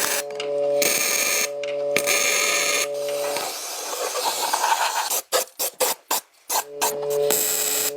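A small motor running with a steady hum and hiss, starting and stopping abruptly several times. About halfway through it gives way to a hissing noise, then to a rapid choppy stutter, and near the end the hum comes back.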